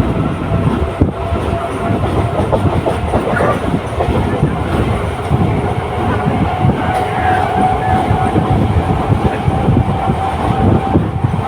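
Suburban electric local train running along the line: a steady rumble of wheels on rail, with irregular clatter over the joints and a steady whine that grows a little stronger about seven seconds in.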